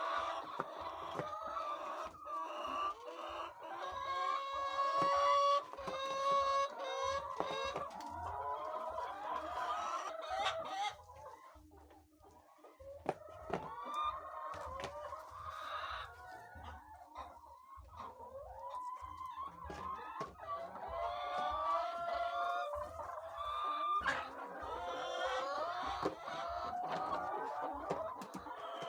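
A flock of laying hens clucking and cackling, many birds calling over one another. It quietens briefly about twelve seconds in, then picks up again.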